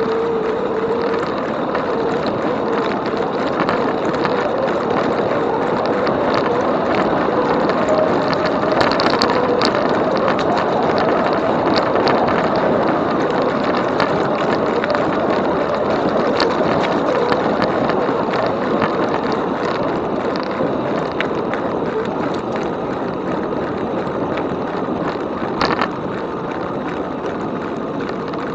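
Riding noise from an e-bike: a steady rush of tyre noise and wind on the microphone, with a faint whine that wavers in pitch, scattered light ticks and clicks, and one sharper knock near the end.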